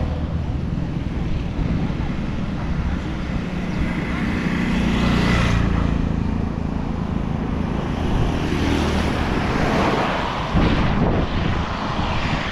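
Road traffic: vehicle engines running and passing close by, a low rumble that swells and fades several times.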